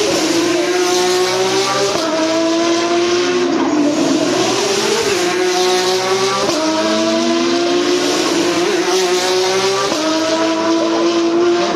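Porsche 911 GT3 Cup race car's flat-six engine at full throttle, rising in pitch through the gears with a sharp drop at each upshift, several times over.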